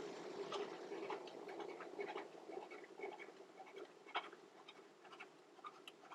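Faint scratching with many small scattered ticks and clicks, as of hand-tool work on a guitar's frets, over a low steady hum.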